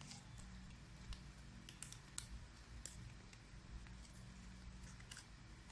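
Faint, irregular crinkles and crisp ticks of a square sheet of origami paper being folded and creased by hand, over a low steady room hum.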